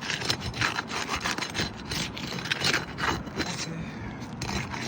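Sealed asphalt roof shingles being pried loose from the shingles beneath, a run of quick, irregular rasping scrapes as the sealant strip is broken.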